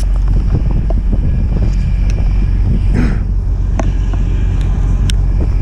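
Oilfield water truck's engine and pump running in a steady low rumble, with strong wind buffeting the microphone. A short gust-like burst about three seconds in and a few light clicks near the end.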